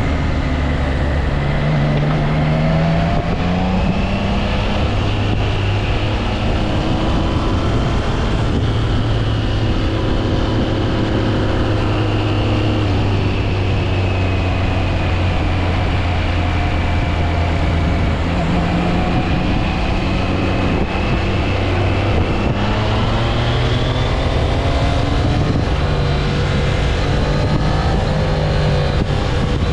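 Triumph Trident 660's 660 cc inline three-cylinder engine under way, its pitch rising and falling several times as the rider works the throttle and gears.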